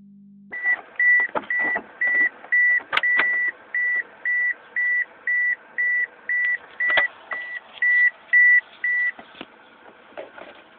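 A car's electronic warning chime beeping steadily at about two high beeps a second, with a few sharp clicks and knocks among the beeps; the beeping stops about nine seconds in.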